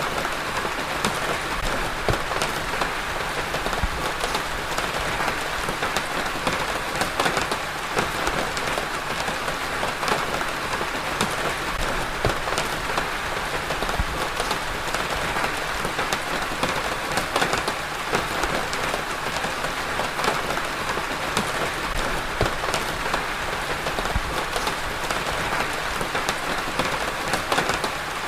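Steady rain falling on a surface, with many close individual drops pattering among the even hiss of the downpour.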